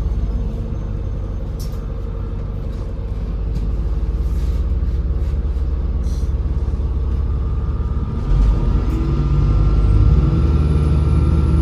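MAZ-203 city bus heard from inside: engine and drivetrain running with a steady low rumble, growing louder about eight seconds in as a faint whine rises slowly with the bus accelerating.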